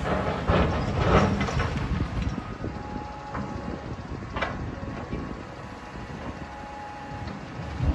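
Heavy demolition machinery running with a low rumble, with several crunching knocks of rubble in the first half that ease off after about five seconds.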